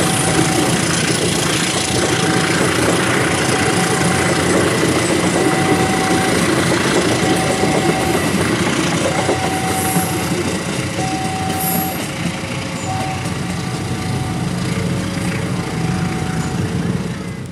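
Departing passenger train's coaches rolling past on the rails, a steady rumble of wheels and running gear that eases off after about twelve seconds as the train draws away. A short high tone repeats about every second and a half throughout.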